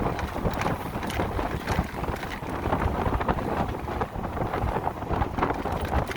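Wind buffeting the microphone on a moving electric motorcycle, a rough gusty rush with road noise underneath and no engine note.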